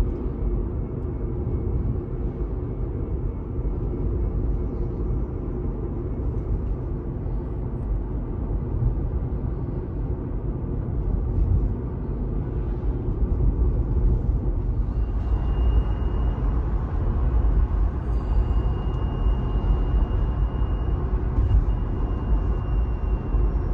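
2018 Tesla Model 3 on the move: steady road rumble with a thin, high-pitched whine from the drive unit inverter, steady in pitch, which becomes clearer about two-thirds of the way through. The owner takes the whine for a fault and hopes new drive-unit ground straps will cure it; Tesla service called it normal.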